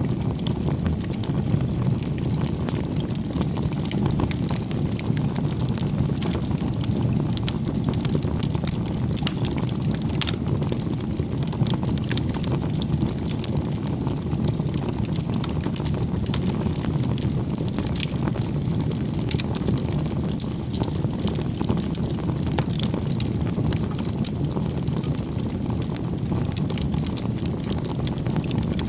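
Wood fire burning: a steady low rush with many small crackles and pops scattered throughout.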